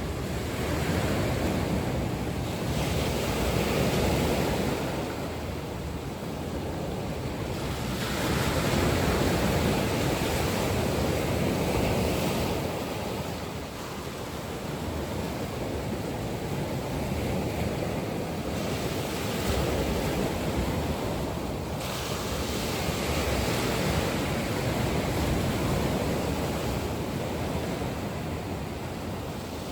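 Ocean waves breaking and washing up on a shore: a continuous surf hiss that swells and eases in slow surges several seconds apart.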